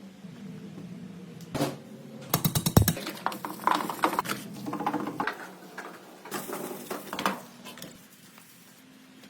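Metal tools and parts clinking and clattering, with a quick run of sharp clicks about two and a half seconds in, over a faint steady hum that fades about halfway through.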